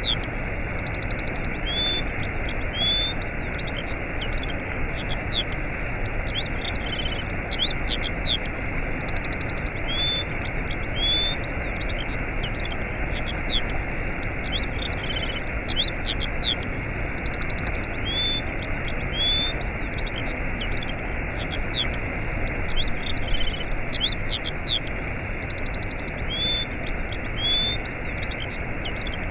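Waterfall rushing steadily, with small birds chirping and trilling over it; the same bird phrases recur about every eight seconds.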